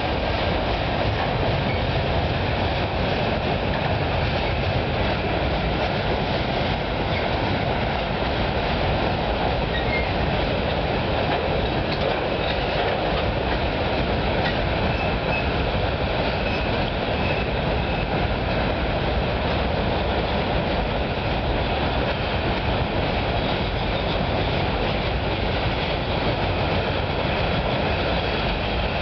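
A long freight train's cars rolling steadily across a steel girder bridge: a continuous rumble and wheel clatter from flatcars of concrete ties and then autorack cars.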